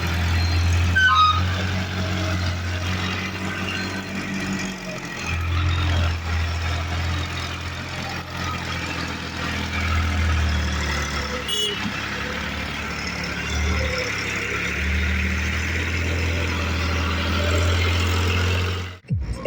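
New Holland 3630 tractor's three-cylinder diesel engine running steadily under the load of two sugarcane-laden trolleys. Its low drone rises and falls a little, then cuts off suddenly near the end.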